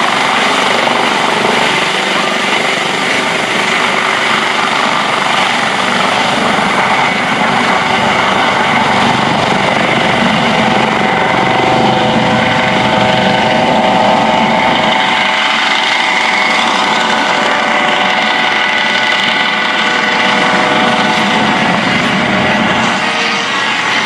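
US Coast Guard MH-65 Dolphin helicopter running steadily, a loud continuous turbine whine and rotor noise.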